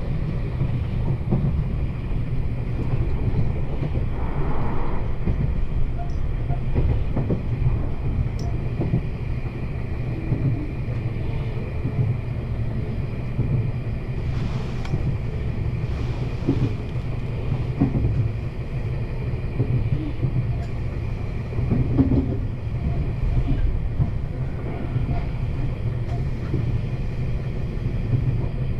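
Meitetsu 1200 series electric train running, heard from inside the car: a steady rumble of wheels on rail with a constant high tone and scattered clicks from the track.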